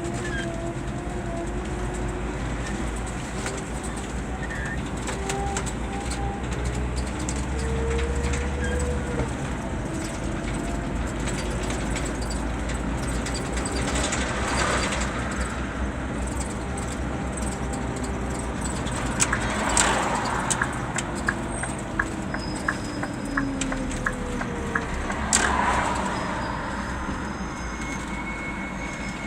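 Scania K 320 bus's five-cylinder diesel driving along with its Opticruise gearbox, the engine and drivetrain running with a whine that rises and falls in pitch as the speed changes. A few short hisses come through, and about two-thirds of the way in there is a short run of quick, regular ticks.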